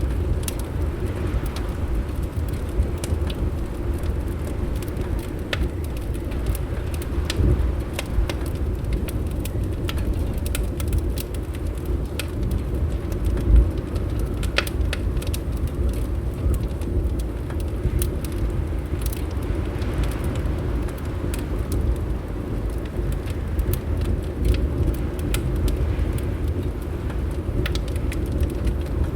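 Fireplace crackling, with irregular sharp pops scattered throughout over a steady low rumble.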